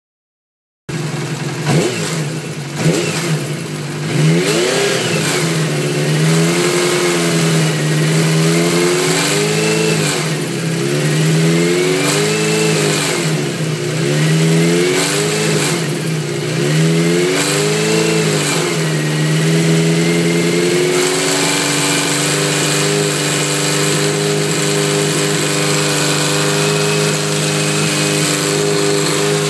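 Kawasaki Z400FX's air-cooled inline-four engine revved up and down again and again, then held at one steady speed for the last third. The owner reports a strange noise that always comes on at about 3000 rpm, its cause unknown.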